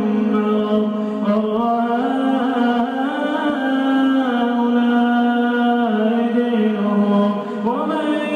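A male reciter chanting the Qur'an in melodic tajwid style: one voice holding long drawn-out notes that step and slide between pitches, unbroken throughout.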